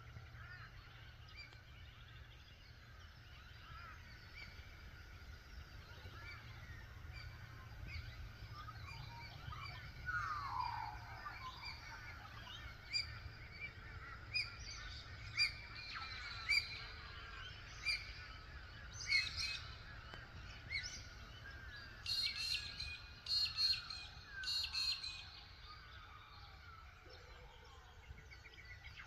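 Morning chorus of many wild birds chirping and whistling, with one falling whistle about ten seconds in and louder, sharp repeated calls in the second half, over a low steady rumble.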